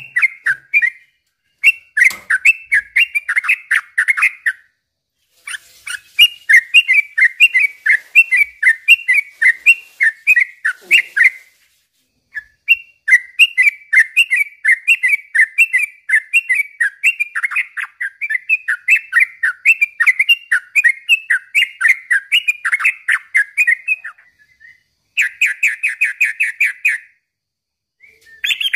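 Yellow-vented bulbul (trucukan) in loud full song: long runs of rapid, bubbling chirps, each run lasting several seconds and broken by brief pauses, with a quicker, buzzier trill near the end.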